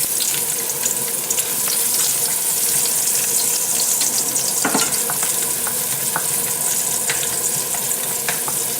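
Onion tipped into hot oil in a pan, sizzling loudly from the moment it goes in, with scattered crackles as it sautés.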